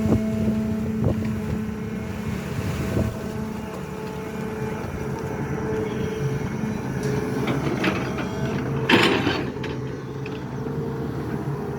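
SANY hydraulic excavator's diesel engine running steadily as it digs, its note dropping a few seconds in. Scattered knocks and a loud clatter about nine seconds in.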